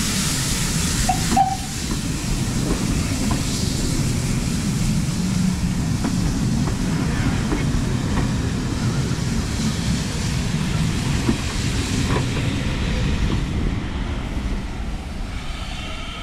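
Steam-hauled heritage train's coaches rolling slowly past, a steady rumble of wheels on the rails with a few clicks and a brief wheel squeal about a second in. A hiss fades over the first few seconds, and the rumble eases off near the end as the train arrives.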